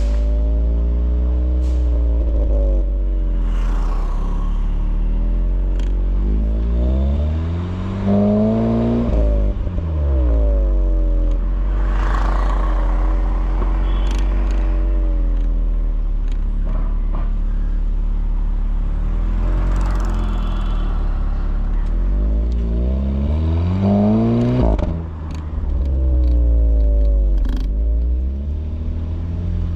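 Volkswagen Polo GTI's 1.8 TSI turbocharged four-cylinder engine and exhaust while driving. The engine note climbs in pitch under acceleration and drops back at gear changes several times, most strongly twice, with steadier running between.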